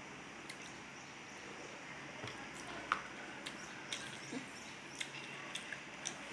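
Quiet eating sounds: soft chewing and squishing of food with scattered small clicks, the sharpest about three seconds in.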